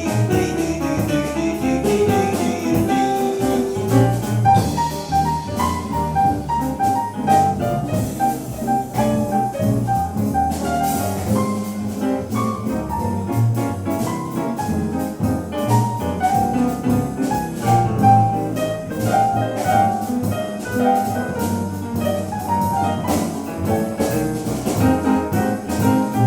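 Live jazz band playing an instrumental swing passage with piano, with no singing.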